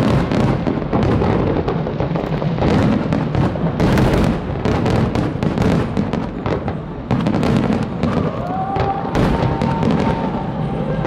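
Fireworks display with shells bursting in rapid succession, a near-continuous run of cracks and booms, with music playing underneath.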